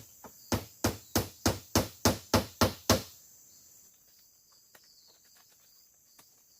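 A tool striking wood in quick, even blows, about three a second, stopping about three seconds in. After that, a faint steady insect hum and a few light ticks.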